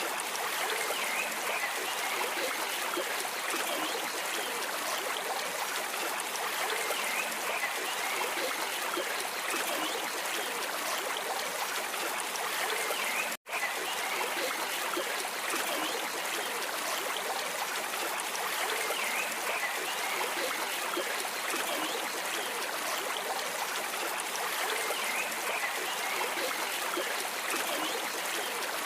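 Shallow stream flowing steadily with a continuous rushing, trickling sound. It cuts out suddenly for a split second about thirteen seconds in, then carries on unchanged.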